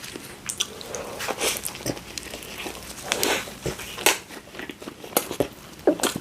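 Close-miked eating: biting and chewing, heard as an irregular run of short crunches and clicks.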